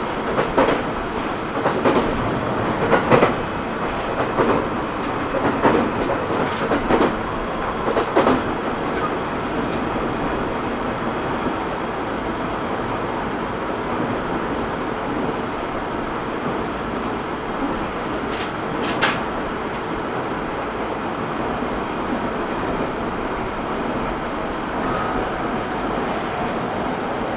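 Running sound inside a JR East E127 series 0 electric train: the steady rumble of wheels on rail. The wheels clatter over rail joints several times in the first eight seconds or so, and there is a single sharp click about 19 seconds in.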